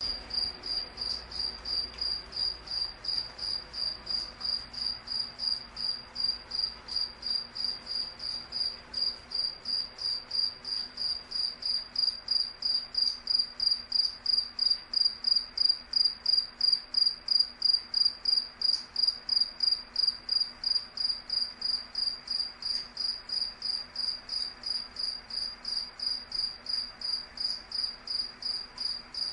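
A cricket chirping steadily: short, evenly spaced chirps at about three a second, all on one high pitch. The chirps grow louder toward the middle and ease off again near the end.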